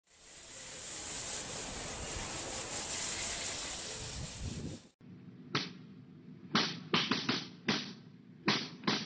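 A spray hisses steadily for about five seconds during car detailing work, then cuts off. After that come a string of short, sharp scrubbing strokes over a steady machine hum.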